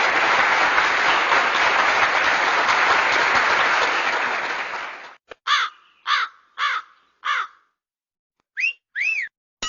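Applause, as a stock sound effect, for about five seconds, cutting off. Then a crow caws four times, evenly spaced, and two quick whistles slide up and down near the end.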